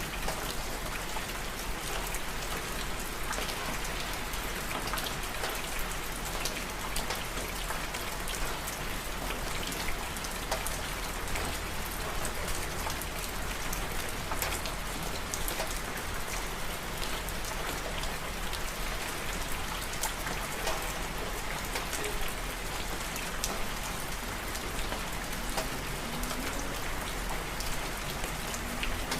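Steady rain falling, with many individual drops heard as short ticks over an even hiss.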